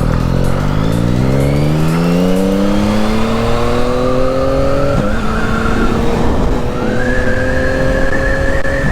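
2021 Yamaha MT-09's 890 cc three-cylinder engine pulling under acceleration: its pitch climbs steadily for about five seconds, drops suddenly at an upshift, then climbs slowly again.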